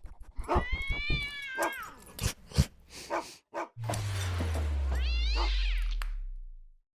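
A cat meows once, a high call about a second long. Then a low hum comes in and slowly falls in pitch, with hiss over it and a short rising cry near its end, and fades out just before the end.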